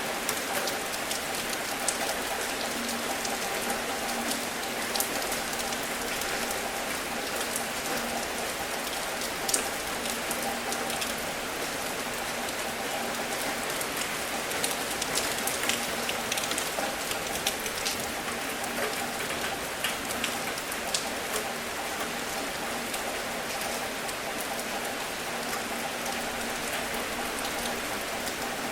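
Steady gentle rain falling, an even hiss with many scattered individual drops ticking sharply on a surface. A faint steady hum runs underneath.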